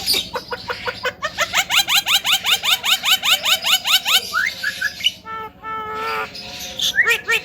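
Javan myna calling: a fast run of short rising notes, about seven a second, then a brief harsh buzzy call. Another quick series of notes starts near the end.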